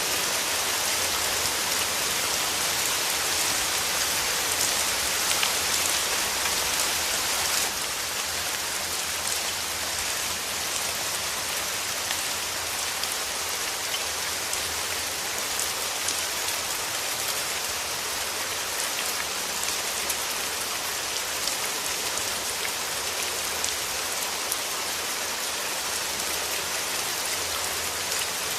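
Steady rain falling, a dense hiss with many small drop ticks in it. It drops a little in loudness about eight seconds in, then carries on evenly.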